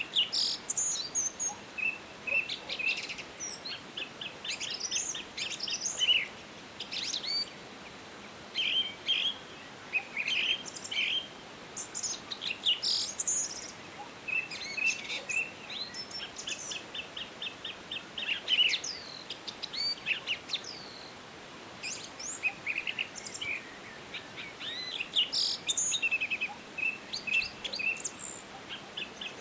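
Forest songbirds singing and calling throughout, overlapping: short chirps, rapid trilled runs of notes and high whistles, over a faint steady background hiss.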